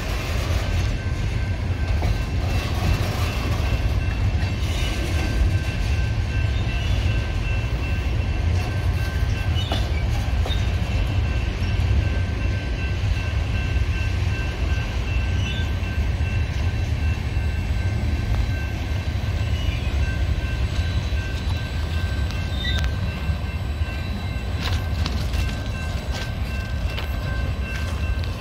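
Freight train boxcars rolling past at close range: a steady, loud low rumble of steel wheels on the rails.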